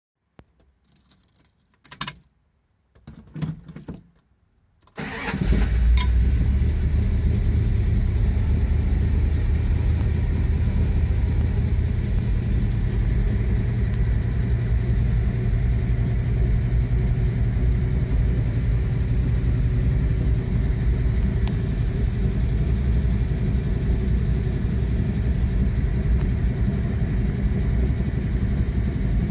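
1970 Plymouth 'Cuda V8 cold start heard from inside the cabin: after a few faint clicks the engine fires about five seconds in and settles into a steady idle.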